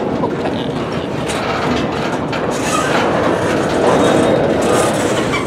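Freight train's covered hopper cars rolling past at close range, steel wheels rumbling and clicking on the rail.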